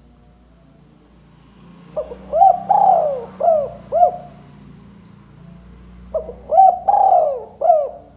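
Spotted dove (tekukur) cooing: two phrases of about five arched coo notes each, the first about two seconds in and the second about six seconds in.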